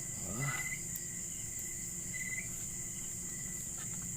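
Crickets chirring in a steady high-pitched drone, with a faint low hum beneath.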